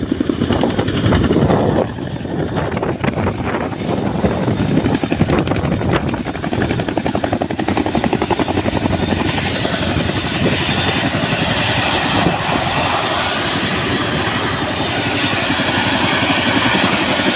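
Chinook tandem-rotor helicopter running, its rotors beating in a fast, steady pulse. From about halfway through, a hissing rush grows louder over the top.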